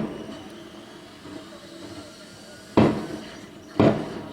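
Fireworks going off: a bang right at the start, then two more about a second apart near the end, each trailing off in a rolling echo.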